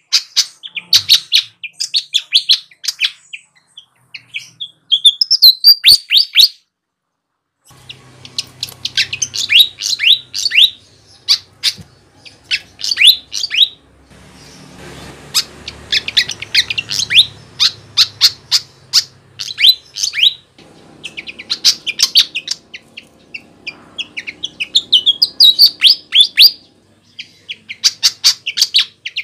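A sikatan (flycatcher) singing a lively, vigorous song: phrases of rapid, high chirps and trills a second or two long, broken by short pauses, repeating throughout.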